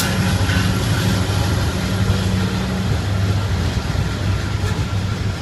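Ferromex train passing, with a steady low drone under a rushing rail noise; the higher part of the drone fades about three seconds in.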